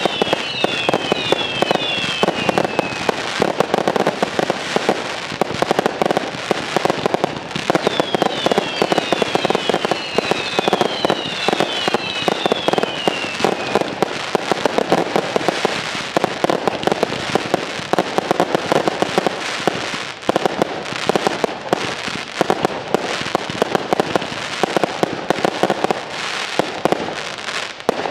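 Fireworks display in a continuous barrage: dense overlapping bangs of bursting shells and crackling stars. Twice, a group of overlapping whistles falls in pitch: at the start, and again from about eight to fourteen seconds in.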